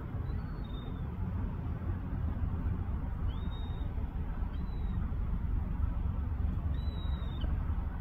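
Four short, thin, high-pitched bird calls, each a brief whistle that rises and then holds, over a steady low rumble.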